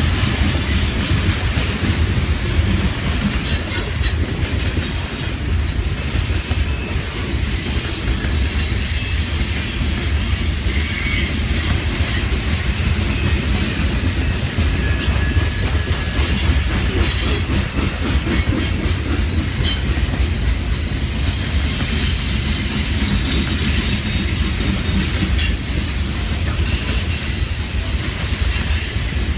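BNSF covered hopper grain cars rolling past with a steady low rumble of steel wheels on rail. Short high-pitched wheel squeals and clicks come and go.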